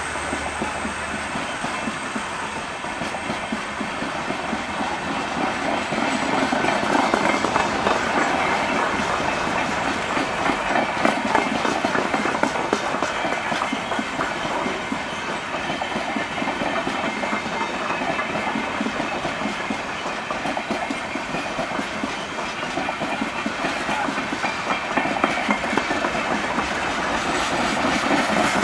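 Passenger coaches of a departing express train rolling past, wheels clattering steadily over the rail joints with a continuous rolling rumble.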